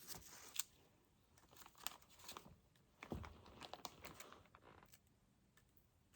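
Faint crinkling and rustling with a few small clicks, loudest about half a second in and again about three seconds in.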